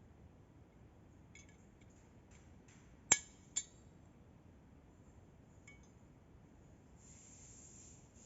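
Two sharp metallic clinks about half a second apart, the first louder, among fainter light clicks of metal tools or parts being handled, with a soft hiss near the end.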